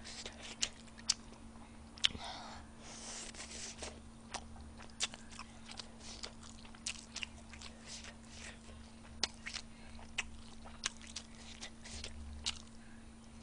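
A person chewing food close to a microphone, with scattered small clicks from the mouth and the chopsticks. A faint steady hum runs underneath.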